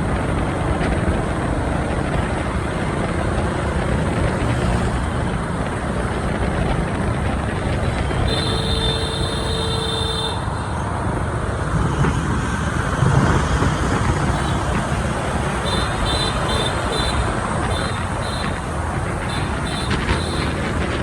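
Steady engine and traffic noise of a motorbike riding through city streets. A vehicle horn sounds for about two seconds near the middle, and several short high beeps follow near the end.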